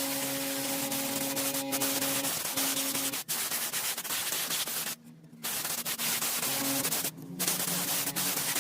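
Steady abrasive sanding noise with a low hum beneath it, breaking off briefly twice, once about five seconds in and once about seven seconds in.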